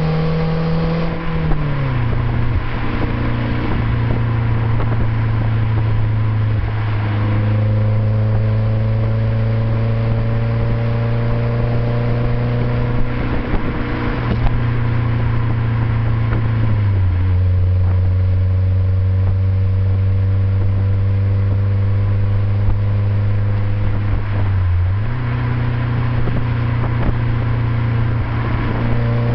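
BMW Z3's M44B19 1.9-litre four-cylinder engine through an aftermarket OBX exhaust, driving at steady revs. The exhaust note holds an even pitch for long stretches, drops as revs fall about a second and a half in and again around halfway and near the end, then rises as it revs up again at the very end.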